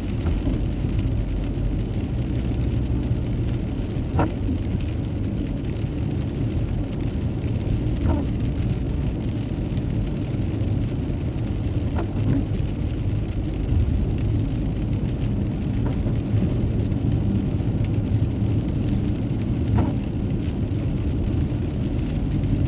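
Inside a moving car on a wet road in heavy rain: steady low rumble of engine and tyres. A faint short sound repeats about every four seconds.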